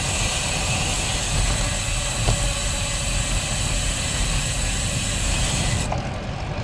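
Wind rumble on the microphone of a moving bicycle, with a steady high hiss and buzz that cuts in and out abruptly.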